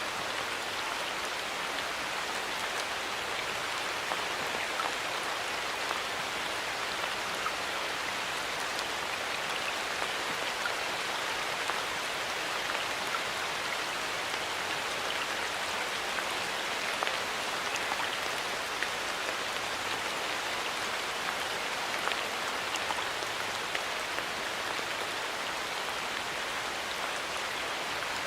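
Steady rain falling in a forest, a dense even patter of drops with many small individual drips.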